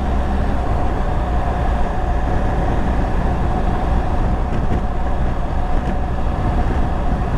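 BMW R1200GS boxer-twin motorcycle under way at road speed: a steady engine drone mixed with wind rushing over the camera's built-in microphone, with a faint steady hum throughout.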